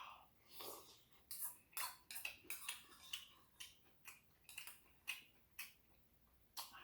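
Close-up chewing of rice cake ramen: faint, irregular wet mouth smacks and clicks, several a second.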